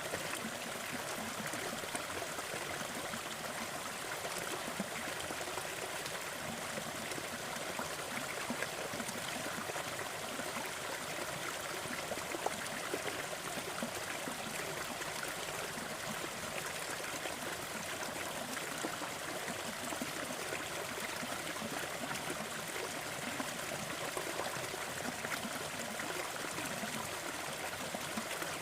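Gentle forest waterfall, water splashing and trickling steadily with small scattered splashes.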